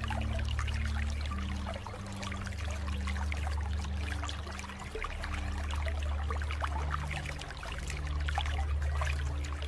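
Water trickling and splashing steadily, like a small stream, over soft sustained low music notes that shift slowly from one pitch to the next.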